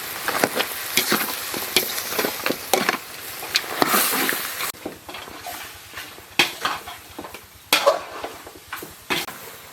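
Food sizzling in a hot pan while a utensil stirs and scrapes against it in repeated strokes. The sizzle drops away abruptly about halfway through, leaving the scraping and knocking.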